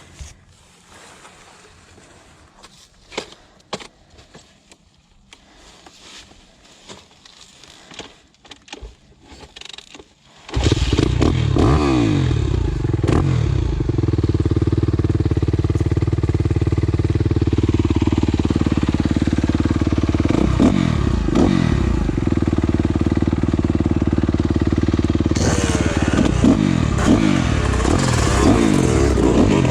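Scattered clicks and knocks, then about a third of the way in a two-stroke dirt bike engine comes in suddenly and runs loud, revving up and down several times.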